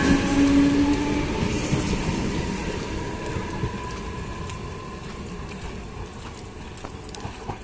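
Mumbai suburban electric local train running, a steady whine over the rumble of the cars. The whine fades within the first few seconds and the running noise dies down gradually, with a few light clicks near the end.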